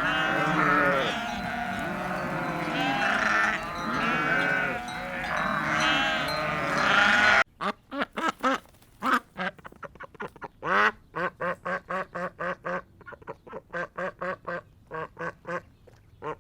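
A dense chorus of overlapping farm-animal calls, then, after a sudden cut about seven seconds in, a run of short separate quacks from ducks, about three or four a second.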